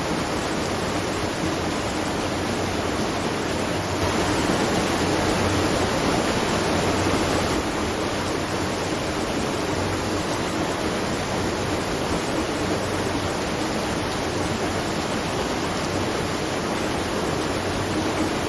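Water rushing and splashing steadily at a watermill, swelling a little for a few seconds about four seconds in.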